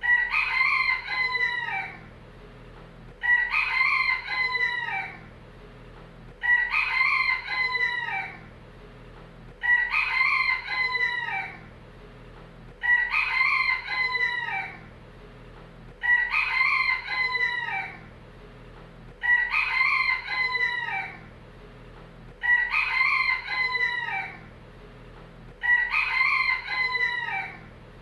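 Rooster crowing over and over: a two-second cock-a-doodle-doo repeating evenly about every three seconds, each crow the same, a single crow looped.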